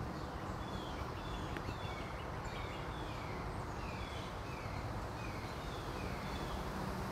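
Forest ambience: a songbird sings a quick series of short falling whistles that start about a second and a half in and fade out near the end, over a steady low rumble.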